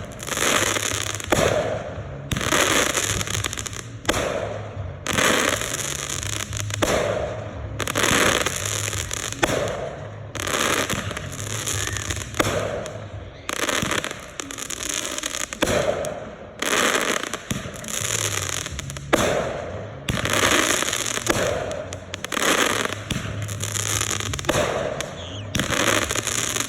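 Consumer aerial fireworks going off in quick succession: a sharp bang about every second, each trailing into fizzing crackle that fades before the next.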